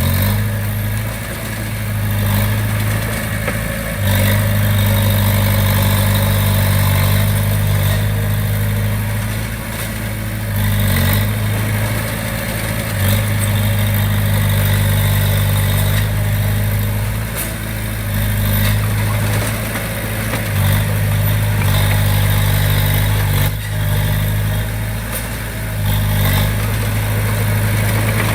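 Komatsu D20P bulldozer's diesel engine running steadily under work, its level and pitch dipping slightly and recovering every few seconds.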